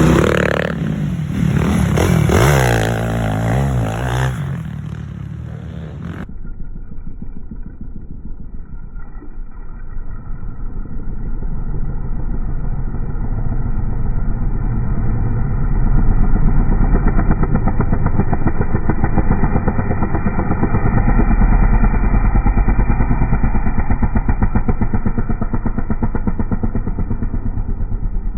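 Motocross dirt bike engines revving, rising and falling in pitch. About six seconds in, a cut switches to a muffled recording of a dirt bike engine running steadily, which gets louder past the middle.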